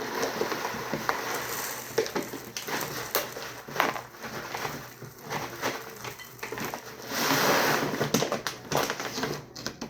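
Dry rustling and crunching of something being handled, with many small clicks and a louder stretch of rustling about seven seconds in.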